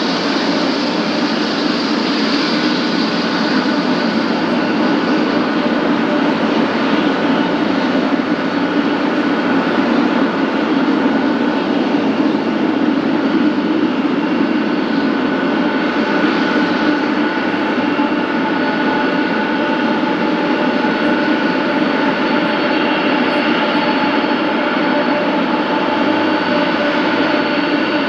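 Boeing 777F's twin GE90 turbofan engines running loud and steady: several high whining fan tones over a continuous rush of jet noise, the tones shifting slightly about halfway through.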